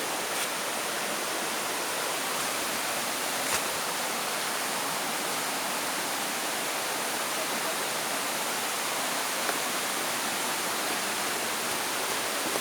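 Rushing water of a waterfall: a steady, even hiss with no breaks.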